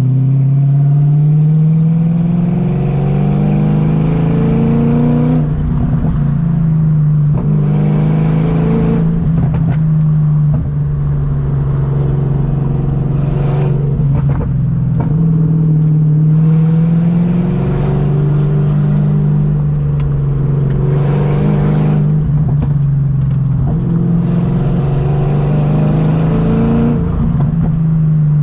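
BMW M60 V8 in an E30, running loud through a straight-piped exhaust while driving. Its pitch climbs in several pulls under throttle and drops back between them, with steadier cruising in between.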